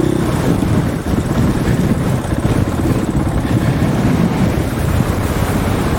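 Strong wind buffeting the microphone in a loud, choppy flutter, over a dirt bike engine running underneath.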